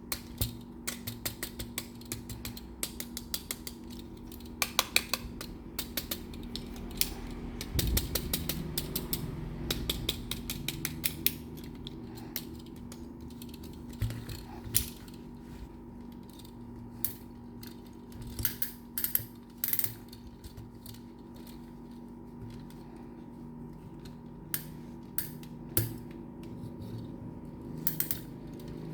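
Quick clicks, rattles and ratchet-like ticking of small die-cast toy construction trucks being handled and their moving parts worked, with a faint steady hum underneath. The clicks come thick and fast for the first dozen seconds, then grow sparser.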